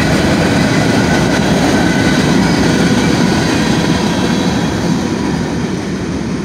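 Norfolk Southern freight train rolling past over a grade crossing: a steady rumble of wheels on rail, with a few thin steady high tones over it, easing off slightly near the end.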